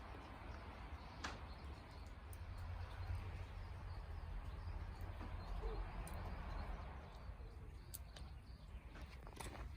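Rain hissing steadily over a low rumble, with a few sharp pops from a wood campfire crackling.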